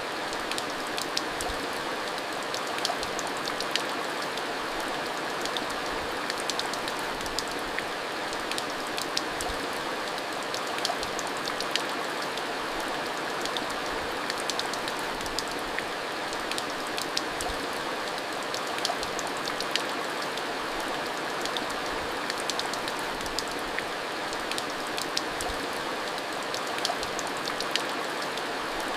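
Steady heavy rain falling, with many individual drops ticking sharply against a surface over the constant hiss of the downpour.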